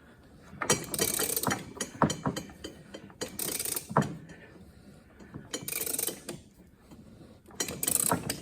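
Socket ratchet clicking in four bursts, a few seconds apart, as it is worked back and forth to run down the nut that presses the fifth gear onto the NV4500 transmission's shaft. There are a couple of sharp knocks along the way.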